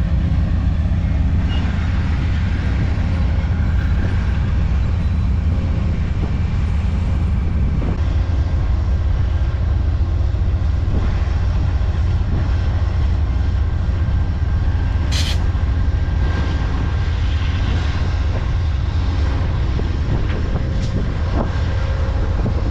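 Amtrak diesel locomotives running with a steady, deep rumble, with a short burst of air hiss about two-thirds of the way through.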